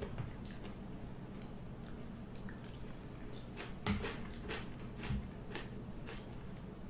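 A person chewing food close to the microphone: soft, scattered mouth clicks, with two louder smacks about four and five seconds in.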